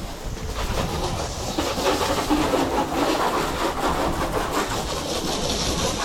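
Water spraying onto a car's bodywork as it is rinsed down, a steady rushing hiss with a low rumble beneath.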